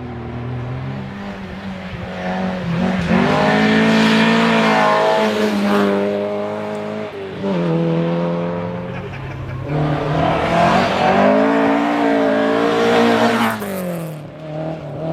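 Rally car engine revving hard at speed, its pitch climbing and dropping over and over as it changes gear and lifts. It grows loud twice, a few seconds in and again about two-thirds of the way through.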